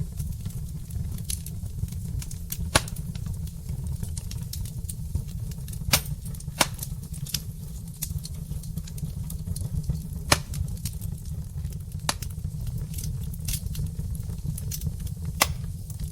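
Wood fire of burning logs crackling in a brick fireplace: a steady low rumble of the flames under a constant scatter of small ticks, with about half a dozen sharper, louder pops at irregular moments.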